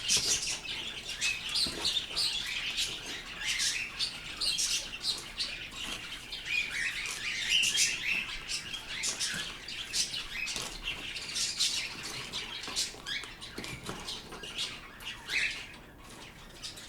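Pet birds chirping continually, a dense run of short high calls that thins out a little near the end.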